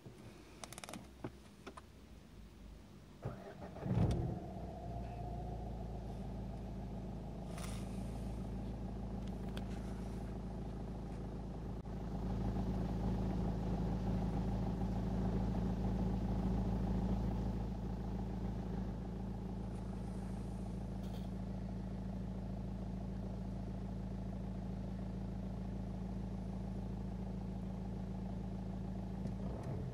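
Renault Megane 1.5 dCi four-cylinder diesel engine cranking and catching about four seconds in, then idling steadily, a little louder for a few seconds in the middle, heard from inside the cabin. The engine is showing a 'Check anti-pollution system' fault, which the owner traced to three faulty glow plugs and a clogged diesel particulate filter.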